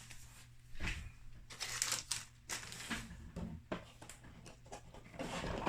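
A stack of Magic: The Gathering trading cards being handled and rearranged: a run of irregular short rustling slides and taps, with a faint steady low hum underneath.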